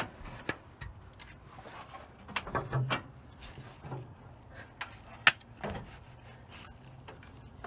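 Scattered light clicks, taps and rubbing of parts being handled and fitted back on, with one sharp click about five seconds in.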